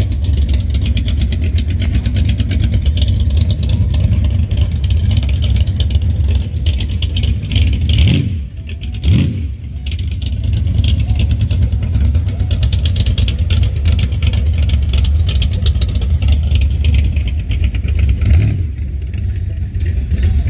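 Classic car or hot rod engine exhaust rumbling close by as cars roll in. About eight seconds in, the sound dips and an engine revs up briefly with a rising pitch.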